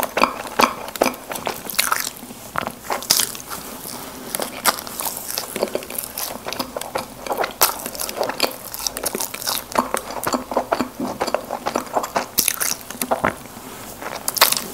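Close-miked chewing and biting of Krispy Kreme doughnuts, with a dense, irregular run of quick mouth clicks and smacks.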